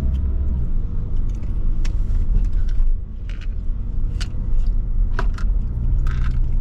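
Motor vehicle running: a steady low rumble with scattered clicks and rattles.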